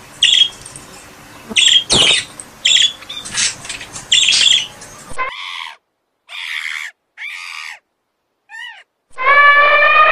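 A series of short, sharp squawking animal calls over background noise, then several short separate calls with silent gaps between them. About nine seconds in, a long, steady, pitched call begins.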